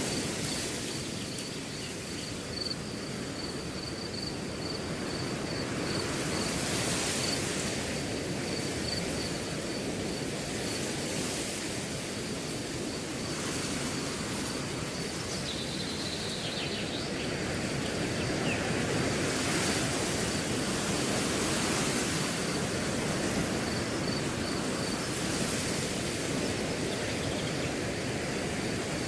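Wind blowing through a grass field, swelling and easing in gentle gusts, with crickets chirping steadily in the background.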